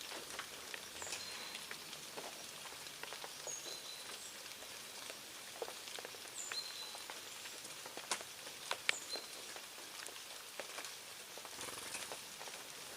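Several brief, high chirps from small birds over a soft hiss and scattered light taps and clicks.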